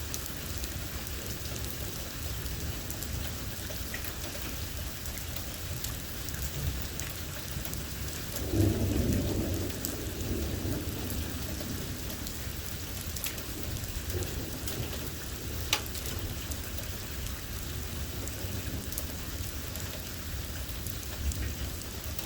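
Steady rain during a severe thunderstorm, with low thunder rumbling throughout and a louder roll of thunder about nine seconds in. Scattered sharp ticks of drops strike a surface.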